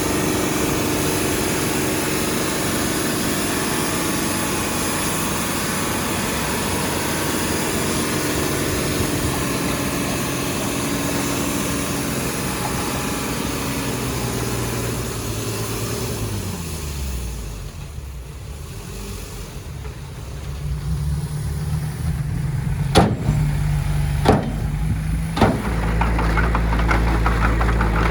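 Heavy earthmoving machinery engine running steadily, then winding down in pitch and dropping in level a little past halfway. A lower engine note picks up, three sharp knocks come about a second apart, and a deep steady engine drone follows near the end.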